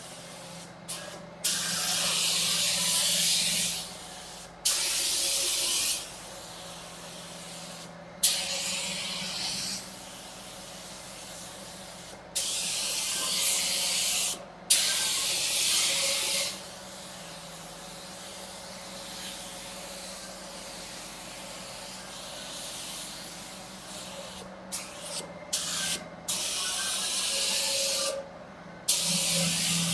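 Compressed-air paint spray gun laying down base coat on a car body in repeated passes. Each trigger pull gives a hiss of one to three seconds that starts and stops abruptly, about eight in all with a few short blips near the end, over a steady low hum.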